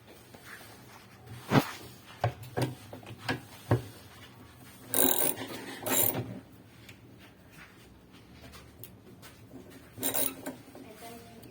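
Hard parts and tools being handled while working on a washing machine: a run of sharp knocks and clanks, then two longer scraping, rubbing passes.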